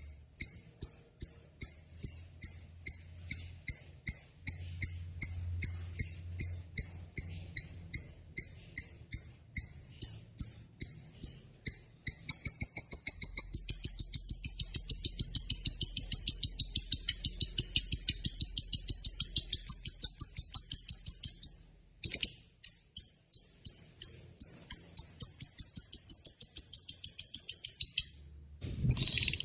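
Lovebird in a long 'ngekek' chatter: a string of sharp, high chirps that about twelve seconds in quickens into a fast, continuous rattle. It breaks off briefly, resumes, and stops shortly before the end.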